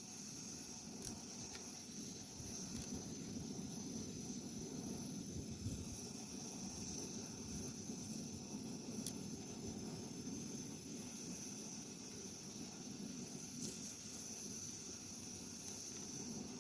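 Wood cooking fire burning: a faint steady hiss with a few sharp crackles, about one, nine and fourteen seconds in.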